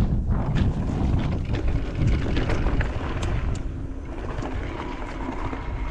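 Wind buffeting the action camera's microphone while riding an e-mountain bike down a dirt trail, with a steady low rumble and scattered clicks and rattles from the tyres and bike over the ground. A faint steady whine comes in near the end.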